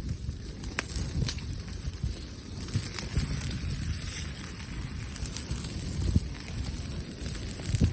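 Wood fire crackling: scattered sharp pops over a steady low rumble.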